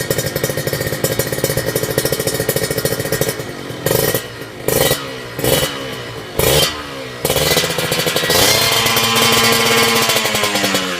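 Kawasaki Ninja 150 R/RR two-stroke single running through an aftermarket exhaust, first with a steady rapid pulsing, then blipped four times about a second apart, then revved and held high for a couple of seconds before dropping back near the end.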